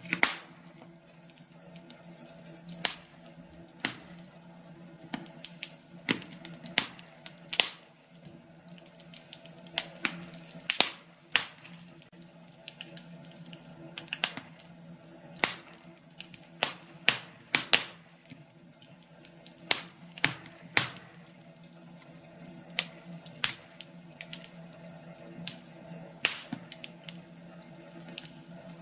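Wood fire crackling in a fireplace: sharp pops and snaps at irregular intervals over a soft, steady background.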